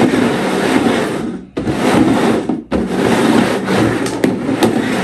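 Food packages being shuffled and slid around on a surface: a loud, continuous rubbing and scraping that stops briefly twice.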